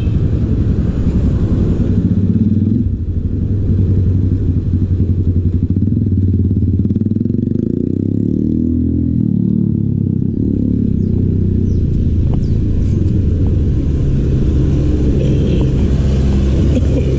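A motor vehicle engine running close by for the whole stretch, a low steady drone whose pitch shifts up and down around the middle.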